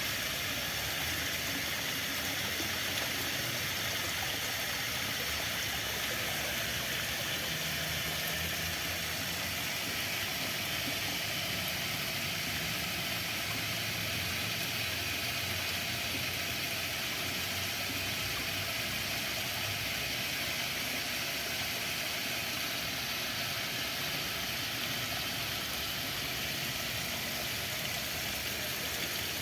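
Flowing water, a steady even hiss with no splashes or breaks.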